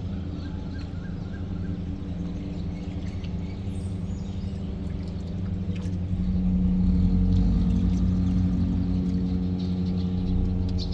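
Tugboat engine running with a steady low hum that grows louder about six seconds in. Birds chirp faintly over it.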